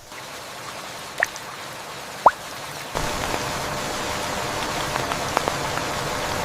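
Rain falling steadily, growing heavier about three seconds in, with two brief rising plinks in the first half.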